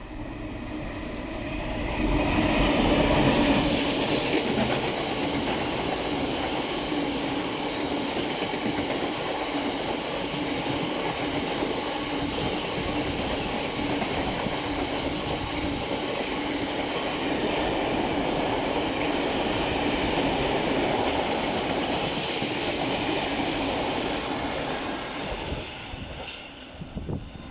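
A train passing close by on the line: the rumble and wheel noise build quickly about two seconds in, hold steady for over twenty seconds, then die away near the end.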